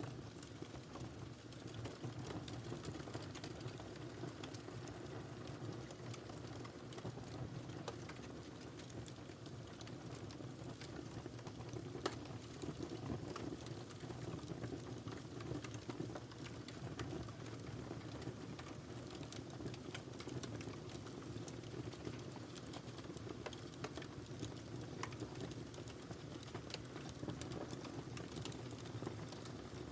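Wood fire crackling in a fireplace: a steady low rumble of flames with scattered small pops and snaps, and one sharper pop about twelve seconds in.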